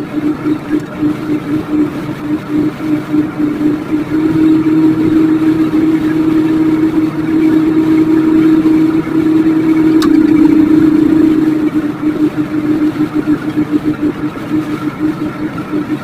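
Microwave oven running with a steady, loud hum that wavers in level and swells for several seconds in the middle. One sharp click about ten seconds in.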